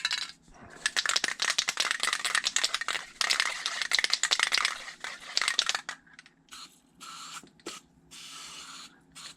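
Aerosol can of Teflon dry lube spraying with a hiss, mixed with rattling clicks, onto a dry raw water pump part to lubricate it; near the end come two shorter, fainter bursts.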